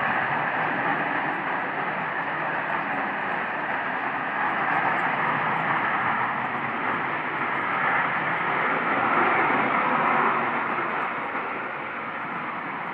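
Loud, steady jet-like noise in the sky, swelling a little about nine seconds in and easing near the end. The recorder could not trace it to any aircraft.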